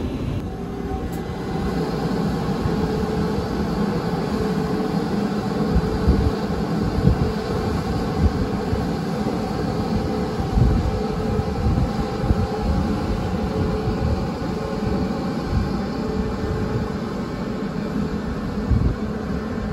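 Taiwan Railway PP Tze-Chiang push-pull express, led by E1000 electric power car E1012, pulling out of the station: a steady rumble of wheels on rail with a faint steady hum, and a few low thumps now and then.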